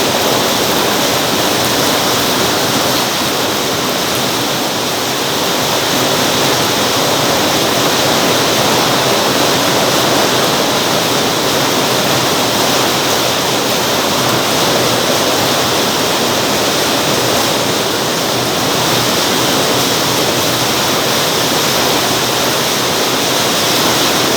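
Heavy rain falling: a loud, steady hiss of downpour.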